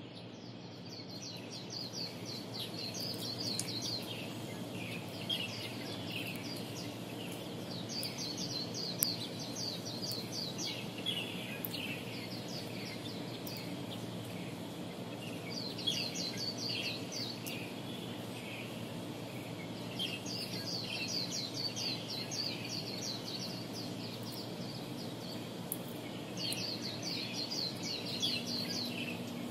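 Songbirds singing in repeated bouts of quick, high chirps, a new burst every few seconds, over a steady low background hum.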